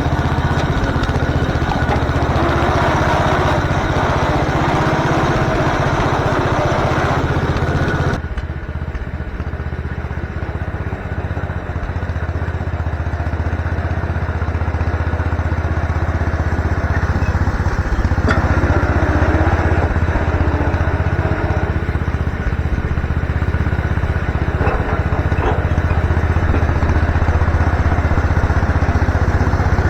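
MTD garden tractor engine running steadily. About eight seconds in the sound abruptly turns duller and a little quieter, then slowly builds louder again.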